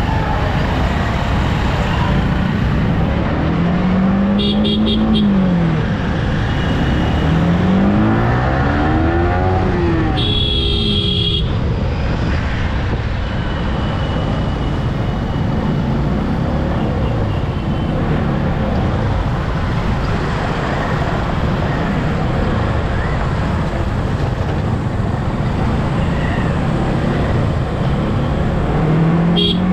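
Yamaha R15 V3 motorcycle's single-cylinder engine under way, its pitch climbing and falling as it revs through the gears a few times, over a steady rush of wind and road noise.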